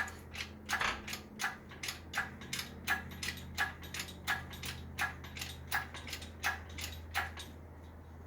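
A ratchet clicking in an even rhythm, about three clicks every two seconds, over a low steady hum; the clicking stops near the end.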